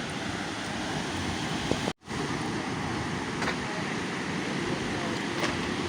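Steady rushing noise of surf and wind at the shore, with the sound cutting out for an instant about two seconds in.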